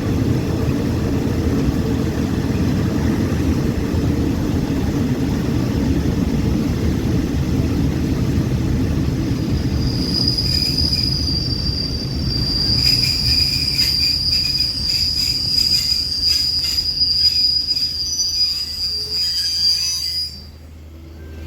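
Passenger train's steel wheels on the rails: a low running rumble, then about ten seconds in a steady high-pitched wheel squeal sets in, with rapid clicking over it. Both stop abruptly near the end.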